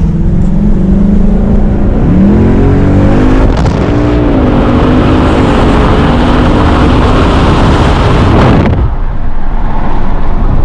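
Ford Mustang's engine accelerating: its note climbs twice as the car pulls away and gathers speed, over loud rushing wind and road noise that drops away sharply near the end.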